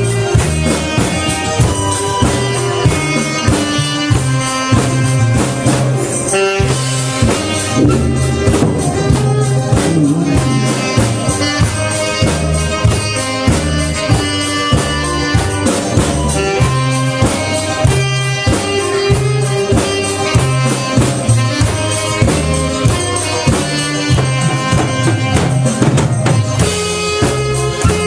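Saxophone and drum kit playing a song together, the drums keeping a steady, busy beat under a pulsing bass line while the saxophone carries the melody.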